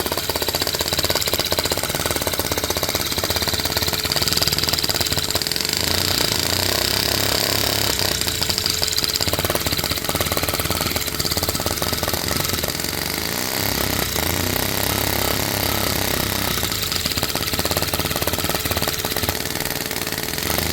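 Lego vacuum engine running fast: a rapid, continuous plastic clatter over a steady loud rush of air.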